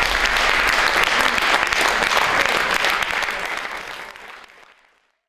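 Concert audience applauding after a soprano and piano performance, dense clapping that fades away over the last two seconds.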